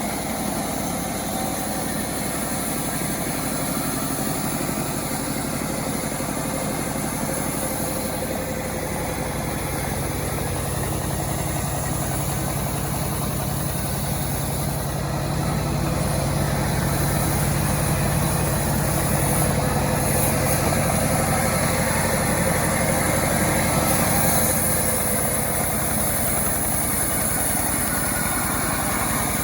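A home-built chainsaw's engine running steadily, getting somewhat louder about halfway through and easing a little near the end.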